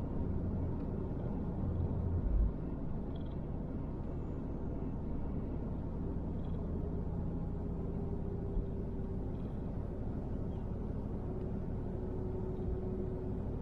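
A car driving at low speed, heard from inside the cabin: a steady low rumble of engine and road noise.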